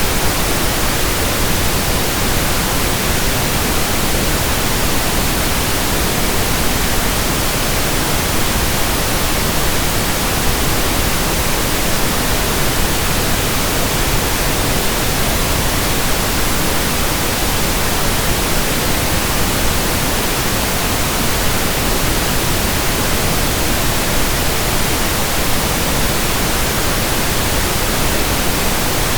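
Steady pink noise, an even hiss that stays the same throughout.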